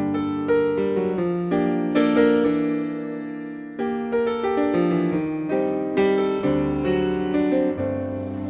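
Piano music, a slow melody of struck notes over held chords.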